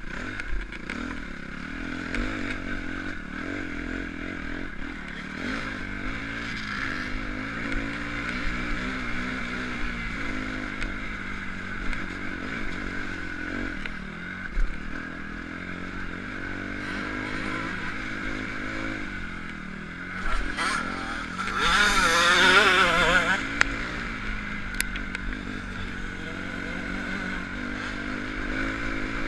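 Motocross bike engines running, their pitch rising and falling with the throttle. About three-quarters of the way through, one bike revs hard close by for a couple of seconds, the loudest moment.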